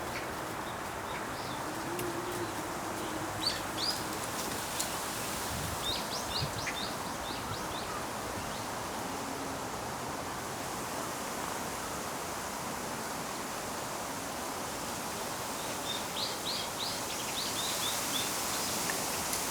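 Small birds chirping in two runs of short, quick high notes, the first a few seconds in and the second near the end. Beneath them is a steady rustling hiss, typical of wind through bamboo leaves.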